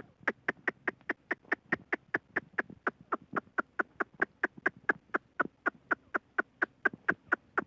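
Grey francolin calling: a steady, rapid series of short, sharp notes, about five a second.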